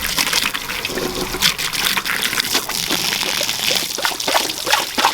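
Water from a garden hose pouring and splashing into a poultry waterer as it is refilled, an uneven, continuous splashing.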